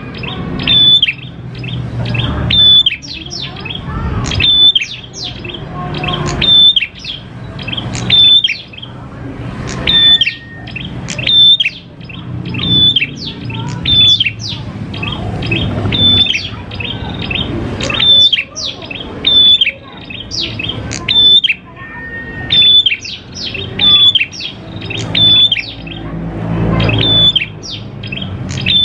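Prenjak klawu songbird calling in a loud, repeated pattern about every two seconds. Each phrase is a short high note followed by a quick run of sharp chattering notes, over a low background rumble.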